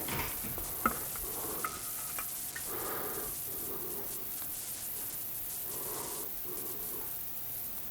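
A few light, sharp clicks and taps from small engine parts being handled during a valve teardown, the loudest about a second in, over a steady hiss.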